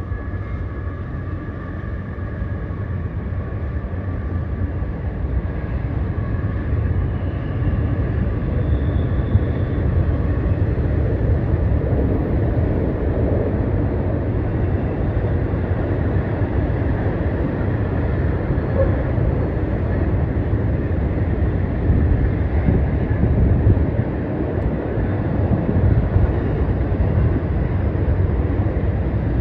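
Freight train of double-stacked intermodal cars rolling across a steel truss bridge: a steady low rumble that grows a little louder over the first ten seconds, with faint steady high tones fading out in that time.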